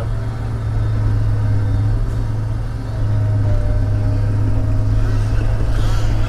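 Diesel engine of a log loader running steadily under load, a little louder from about three seconds in, when a faint steady whine joins it.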